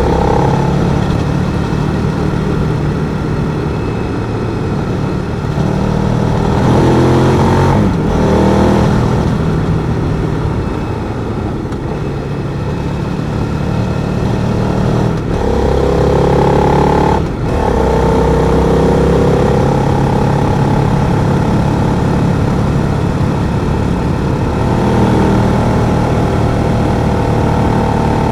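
Twin-cylinder adventure motorcycle engine under way on the road, pulling through the gears. The revs climb and drop back sharply at gear changes, about eight and seventeen seconds in.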